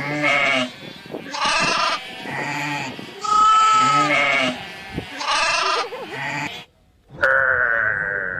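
Goats bleating: a series of about six wavering bleats. A sudden break near seven seconds is followed by another, higher-pitched bleat.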